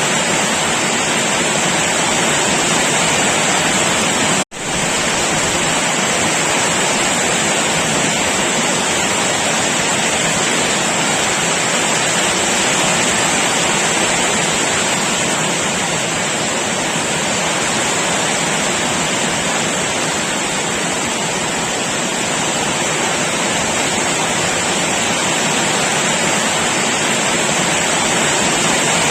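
Heavy rain pouring down, a steady dense hiss with no letup. It cuts out for an instant about four and a half seconds in and comes straight back.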